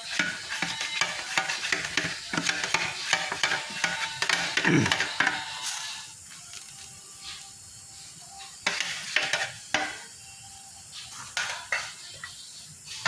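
A utensil stirring and scraping food in a sizzling pan, with rapid clatter for about six seconds, then only a few separate knocks against the pan.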